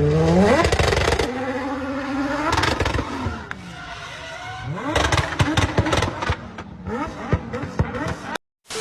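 A motor vehicle's engine revving, its pitch rising and falling, followed about five seconds in by a run of sharp knocks and clattering, as of a collision with scraping.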